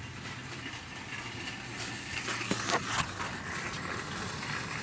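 Car engine idling, heard as a steady low hum inside the cabin, with a few sharp clicks about two to three seconds in.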